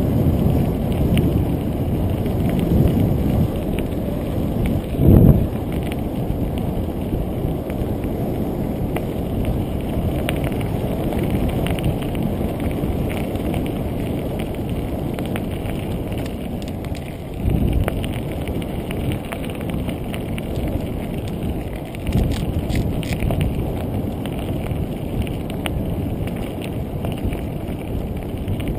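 Steady low rumble of wind and riding noise on a bike-mounted GoPro Hero2's microphone, with heavier thumps about 5 seconds and 17 seconds in.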